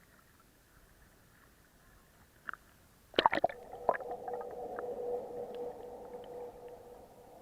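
Sharp knocks and splashing against the action camera as it goes under the water, then a muffled underwater drone with a steady hum that slowly fades.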